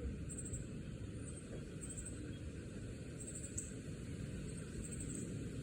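Insects chirping outdoors in short, high, pulsed trills that repeat about once a second, over a steady low background rumble.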